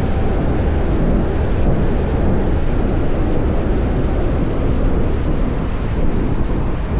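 Wind buffeting the microphone of a moving electric motorcycle, a steady low rush of noise with traffic underneath and almost no motor sound.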